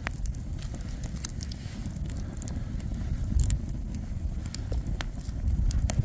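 Low wind rumble on the microphone, growing louder near the end, with scattered sharp clicks and crackles.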